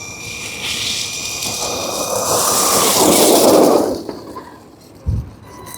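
Redcat Volcano EPX RC truck's stock brushed 540 motor, on 3S, whining along with its tyres on asphalt. The sound builds as the truck runs in close and drops off sharply about four seconds in. A single thump follows near the end.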